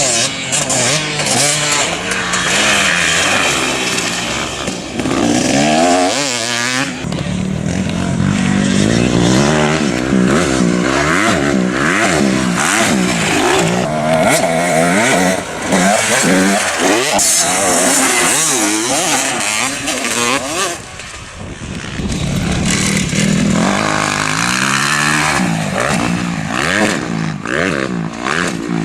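Several motocross bikes' engines revving up and down, with overlapping rising and falling pitches as the bikes accelerate and back off around the track. Loud throughout, with a short lull about three quarters of the way through.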